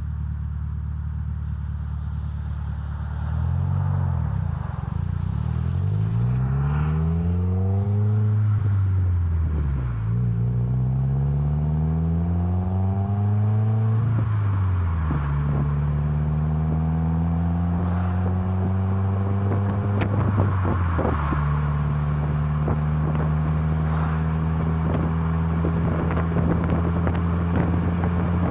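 Subaru WRX turbocharged flat-four running through an ISR MBSE catback exhaust with an added resonator. It idles at first, is revved up and down in several sweeps, then is held at a steady higher engine speed.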